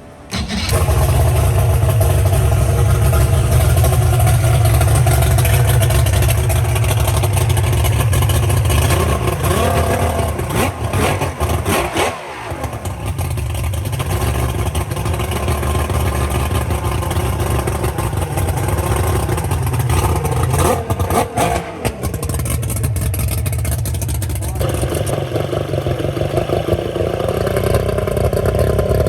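Freshly rebuilt two-stroke outboard motor running on a boat during its break-in, a steady low drone that starts suddenly less than a second in. Its pitch falls and rises a few times, around ten to twelve seconds in and again near twenty-one seconds.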